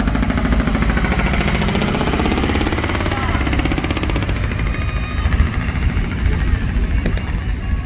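Large decorated truck's diesel engine running loudly as it pulls away, its exhaust a fast, even pulsing.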